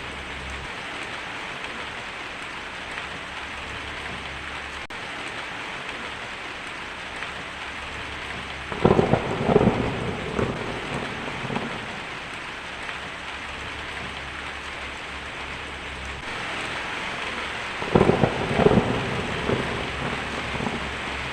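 Steady rain falling, with two rolls of thunder, one about nine seconds in and another near the end, each rumbling for a couple of seconds.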